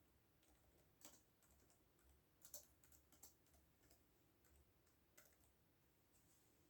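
Faint computer keyboard typing: a scattering of irregular keystrokes, mostly in the first two-thirds, then only a low background hiss.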